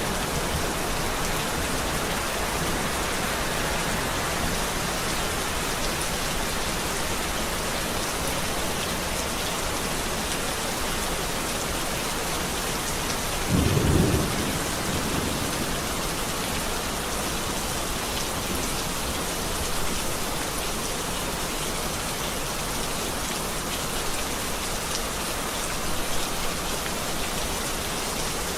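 Steady rain falling, with a brief low rumble of thunder about halfway through.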